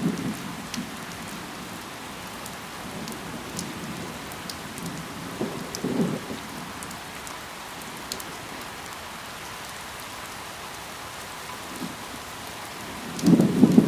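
Steady rain falling on leaves, with scattered sharp drop ticks. A low swell comes about six seconds in, and a louder one near the end.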